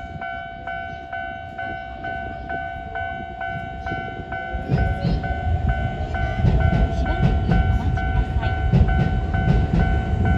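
Level crossing warning bell ringing steadily at about two strikes a second. From about four and a half seconds in, a Keisei 3000-series electric train rumbles past over the crossing, its wheels clacking on the rail joints.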